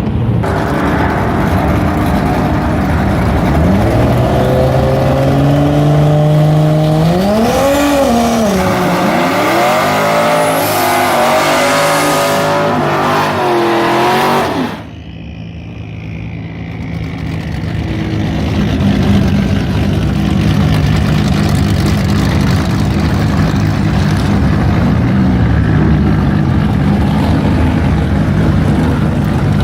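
Drag car engine running loud, its pitch holding steady and then rising and falling through several revs. About halfway through the sound drops off suddenly, then an engine sound builds up gradually and settles into a steady run.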